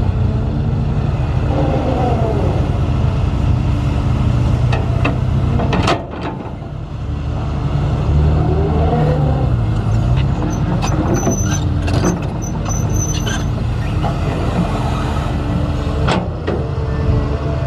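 Heavy diesel construction machinery running with a deep, steady engine rumble, broken by metallic clanks and short rising and falling whines. There is a sudden change in the sound about six seconds in.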